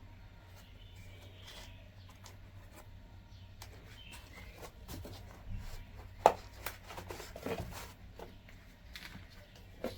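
Scattered light clicks and taps of hands handling things, with one sharp click about six seconds in, over a low steady hum.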